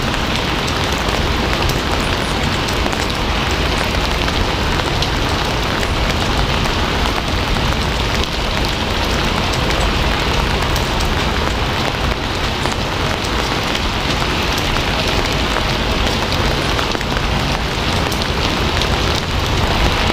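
Steady heavy rain falling on a surface, a dense even hiss with many fine drop patters and a deep low rumble underneath.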